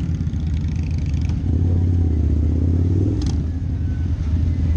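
Harley-Davidson V-Rod's V-twin through a Vance & Hines aftermarket exhaust rumbling at low speed, picking up a little about a second and a half in, with other motorcycles running close by. A short click about three seconds in.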